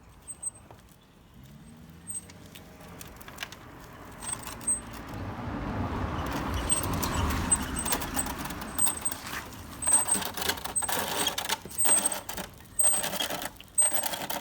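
Loose construction rubble clattering and scraping as it is handled in a barrel, with many sharp knocks in the last few seconds. Midway, a vehicle's noise swells and fades as it passes.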